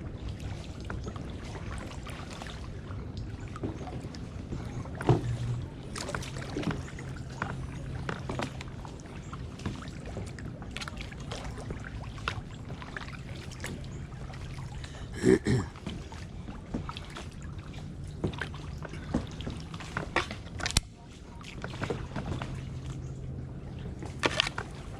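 Kayak paddling: water splashing and dripping off the paddle blades, with scattered knocks and clacks. A sharp knock comes about five seconds in and a louder one midway.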